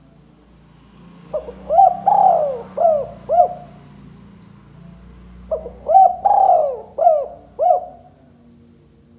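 Spotted dove (tekukur) cooing: two phrases of about five short, swooping coo notes each, the second starting about four seconds after the first. A faint steady high insect-like tone runs underneath.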